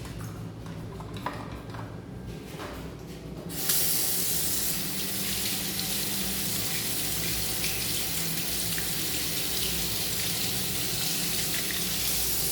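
A washroom sink tap is turned on about four seconds in and runs in a steady, even rush of water.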